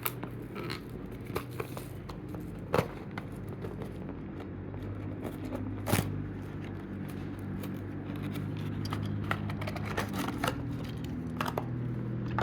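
Cardboard and plastic toy packaging being opened by hand: tearing and crinkling, with scattered sharp clicks and snaps. A low steady hum runs underneath and grows stronger about halfway through.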